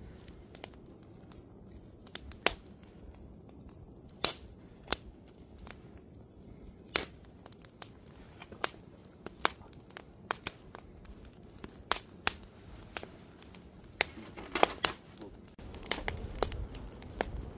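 Wood campfire burning with irregular sharp crackles and pops, about one a second, over a soft steady hiss; a low rumble comes in near the end.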